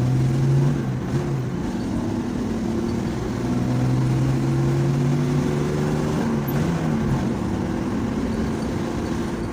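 Vehicle engine and road noise heard from inside the cabin while driving: a steady engine hum that dips slightly in pitch about seven seconds in.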